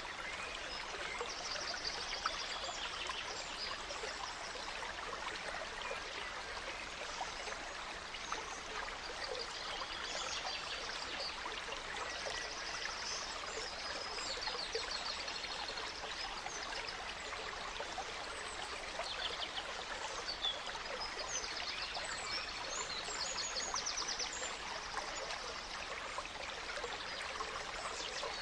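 Small stream running steadily over stones, with forest songbirds singing short, quick trills and chirps every few seconds.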